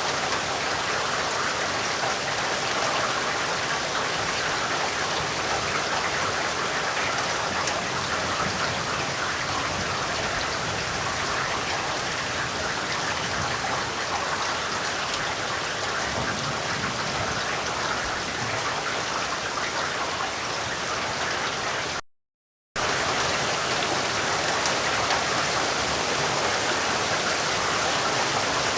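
Steady rain falling, a dense even hiss of many drops with no thunder. About three-quarters of the way through, the sound cuts out completely for under a second and then resumes at the same level.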